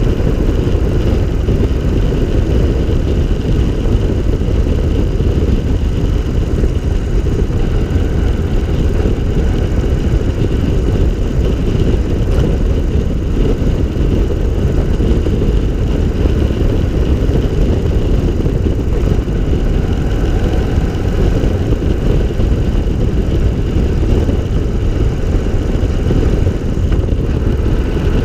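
Three-wheeled trike's engine running steadily at cruising speed, heard from on board the open car, with heavy wind rumble on the microphone.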